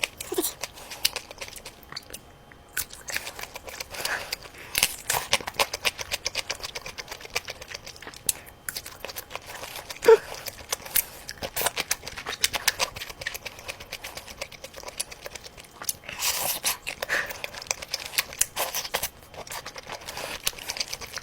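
Close-miked eating sounds of sausages being bitten and chewed: many quick wet mouth clicks and smacks, with a few brief louder snaps.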